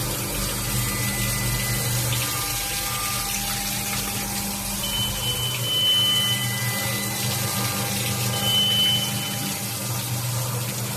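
Five-axis CNC machining centre running: a steady machine hum under a continuous rushing hiss like coolant flow, with a thin high-pitched cutting tone sounding briefly twice.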